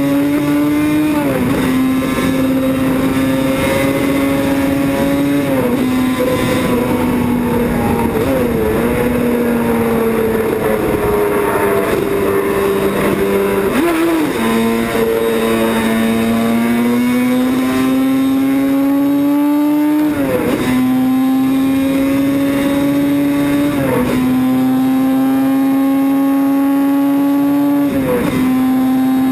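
Racing motorcycle engine running hard at sustained high revs. Its pitch drifts slowly and dips sharply before recovering several times, as at gear changes.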